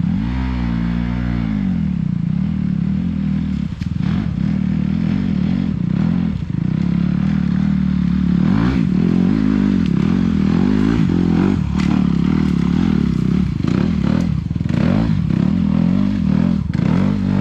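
Dirt bike engine revving hard on a steep hill climb, its pitch rising and falling again and again as the throttle is worked, with scattered knocks and clatter.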